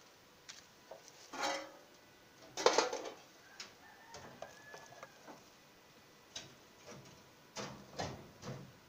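Scattered light knocks and clicks of metal tools handled during car body repair, with two louder knocks about a second and a half and nearly three seconds in and a few more near the end.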